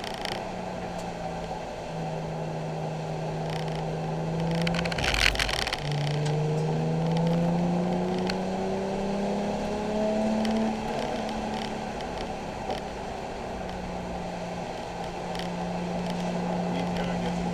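Nissan 370Z's 3.7-litre V6 heard from inside the cabin on track, the engine note holding steady, then a brief loud rush of noise about five seconds in. After it the engine note climbs steadily for several seconds under acceleration, falls back, and holds steady for the last few seconds.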